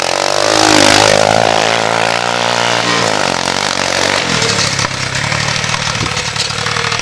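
1983 Honda three-wheeler's engine running through a custom straight pipe: revved up about half a second in, held for a couple of seconds, then dropping back to a lower, uneven idle from about three seconds in.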